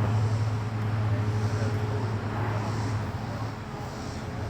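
A vehicle engine running steadily, heard as a constant low hum, with outdoor background noise.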